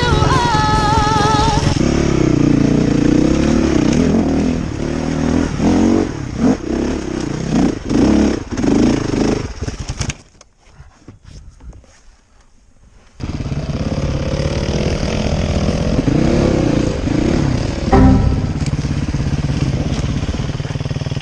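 Enduro dirt bike engine revving up and down in repeated blips, cutting to a low level for about three seconds midway before running and revving again. A sharp knock near the end. Music plays briefly at the start.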